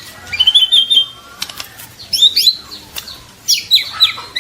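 Young white-rumped shama singing in quick, varied phrases of whistled notes and sweeping calls, with a few sharp clicks around the middle.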